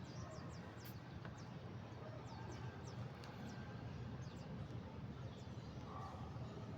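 Small finches chirping: a scatter of short, high, falling chirps, over a steady low rumble.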